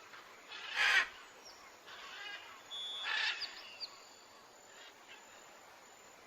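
Bird calls in natural ambience: two short, loud, harsh calls about one and three seconds in, with thin high chirps and whistles between them.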